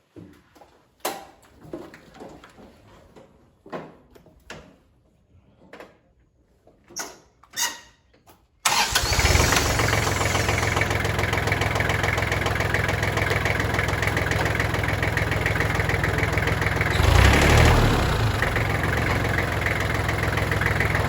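A few scattered knocks and clicks, then about nine seconds in the tractor's engine starts and runs steadily, with a brief louder swell some eight seconds later. It is run with a radiator stop-leak sealant just poured into the leaking radiator.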